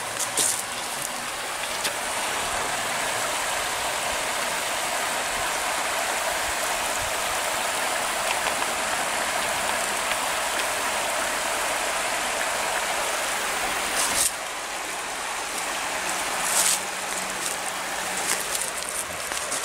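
Steady rushing of flowing water. About fourteen seconds in it becomes a little quieter, with a couple of brief knocks.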